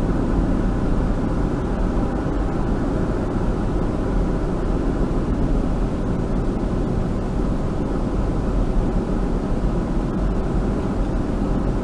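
Steady road and engine noise heard inside a moving car: an even, low rumble.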